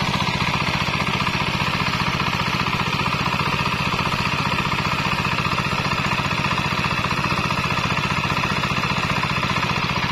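Kubota 8 HP single-cylinder diesel engine running steadily with an even chugging beat, back in running order after its seized piston was repaired.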